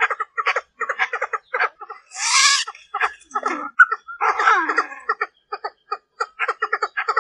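Female Chinese francolin (đa đa) calling, the lure call used to draw males: rapid trains of short clucking notes, broken by a harsh rasping call about two seconds in and a burst of falling chattering notes about four seconds in.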